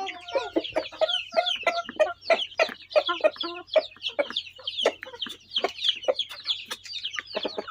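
A flock of chickens and chicks calling: many short overlapping clucks and high downward-sliding peeps in a dense, continuous chatter.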